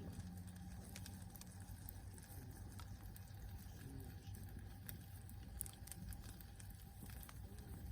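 Log campfire crackling faintly, with scattered sharp pops and snaps over a low steady rumble.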